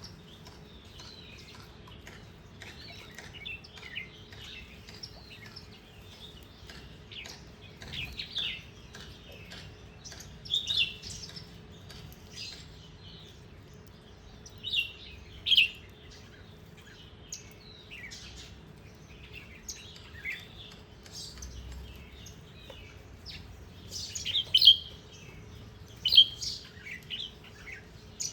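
Small songbirds chirping: a busy run of short, high chirps, with louder calls about ten, fifteen and twenty-five seconds in.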